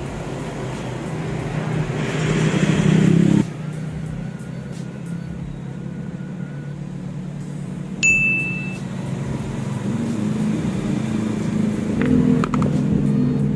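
Motorcycle engine running with a diaphragm carburetor. It rises briefly in a short rev that drops back sharply, then idles steadily and picks up again near the end. A short high beep sounds about eight seconds in.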